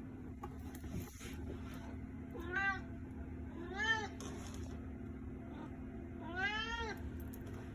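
Domestic cat meowing three times, each meow a short call rising then falling in pitch, the third the longest: a cat begging for food.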